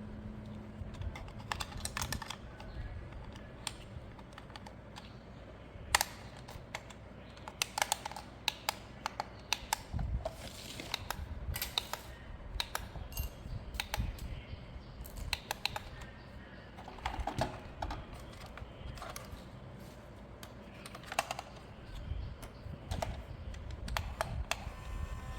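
Irregular light clicks and taps of hard plastic being handled, with a sharper snap about six seconds in.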